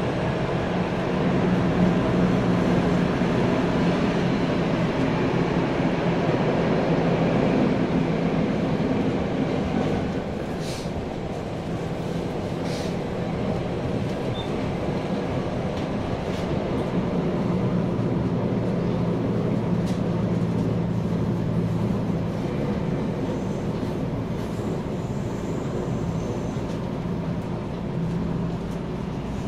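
Tokyo Metro 9000 series electric train running, heard from inside a passenger car: a steady rumble of wheels on rail with a low motor hum, a little quieter from about ten seconds in, with a few faint clicks.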